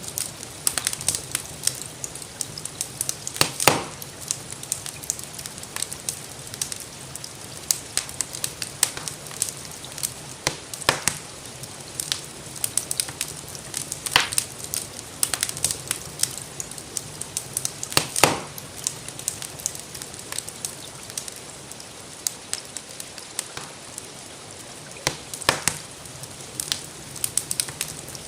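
Wood fire crackling in a fireplace: irregular sharp pops and snaps, a few of them louder, over a steady hiss of gentle rain.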